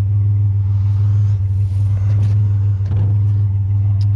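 Vehicle engine idling steadily with a low hum, with a few faint knocks about halfway through and near the end.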